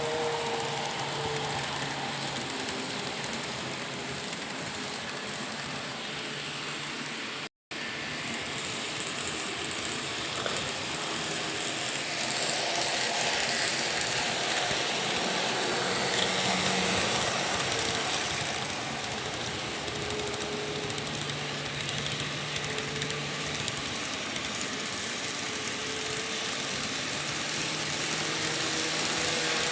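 Electric train running, a steady rumble and rattle with faint motor tones that shift in pitch now and then; the sound cuts out for an instant about seven seconds in and resumes, slightly louder in the middle.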